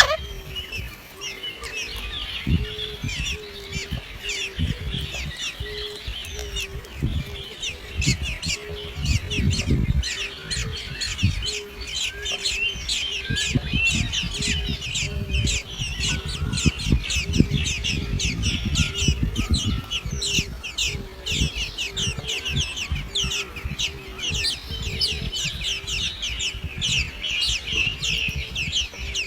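Many birds chirping and squawking in a dense, rapid, high-pitched chatter, with a low short note repeating about once a second. Irregular low rumbles and thumps run underneath.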